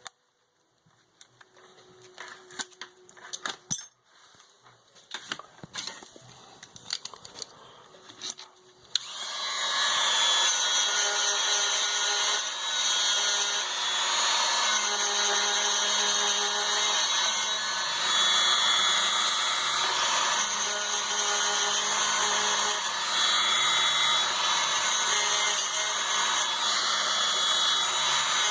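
A few light clicks and taps of small parts being handled. About nine seconds in, a power tool starts up and runs steadily, cleaning up the metal parts of a fuel pump.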